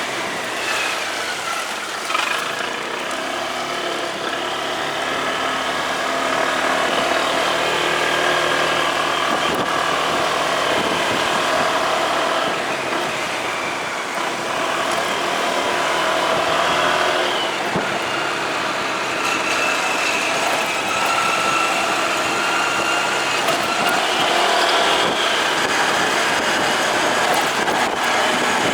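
Motorcycle engine running while riding, its pitch falling and rising with the throttle over steady wind and road noise.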